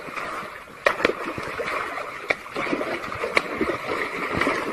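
Water splashing and sloshing, with a few sharp knocks.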